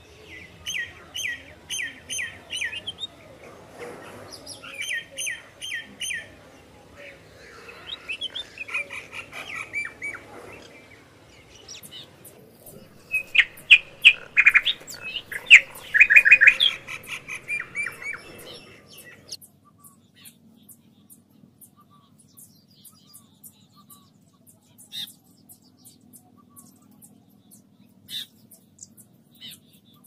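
Birds singing and calling in quick repeated chirping phrases, loudest around the middle. From about two-thirds of the way in, only occasional faint chirps remain over a faint low steady hum.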